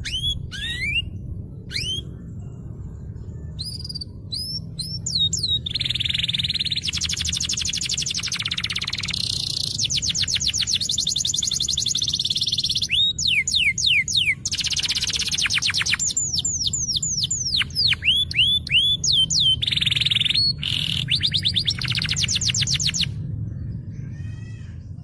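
Domestic canary singing a long, varied song: quick rising chirps and fast rolling trills, one phrase after another with short breaks, over a steady low hum.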